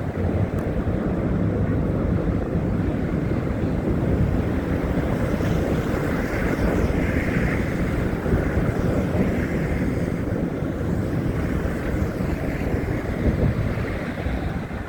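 Wind buffeting a phone's microphone during a snowstorm: a steady, rough rumble that flutters without a break.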